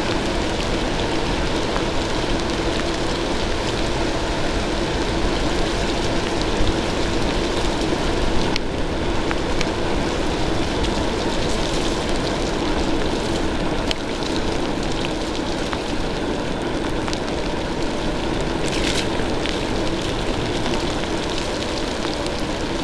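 Heavy, steady rain and wet-road noise heard while riding an e-bike, with a faint low hum underneath.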